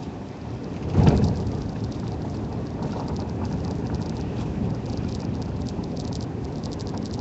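Car driving on a snow-covered road, heard from inside the cabin: a steady rumble of the tyres, with a thump about a second in and fast clicking from then on, the clatter of snow chains on the tyres.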